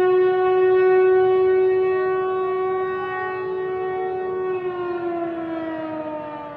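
Air raid warning siren wailing: a loud, steady tone that begins to fall in pitch about four and a half seconds in and slides down as it fades. This rising-and-falling warning signal means an immediate threat, such as an aerial attack or missile strike, calling for immediate shelter.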